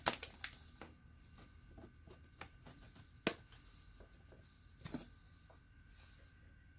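Scattered light clicks and taps of a small Esbit percolator and coffee being handled while its basket is filled with ground coffee, with three sharper knocks: one at the start, one about three seconds in and one about five seconds in.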